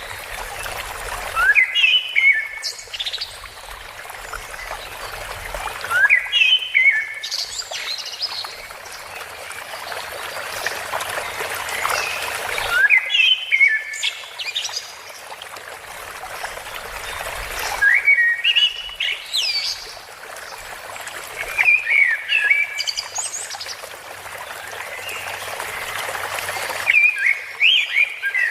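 Birds singing short chirping phrases that recur every few seconds over a steady rush of flowing water.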